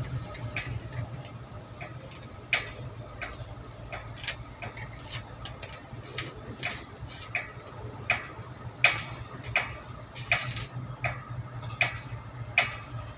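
Freight train moving slowly during shunting: a steady low hum under irregular sharp metallic clicks from the wheels and wagons, about one or two a second, louder in the second half.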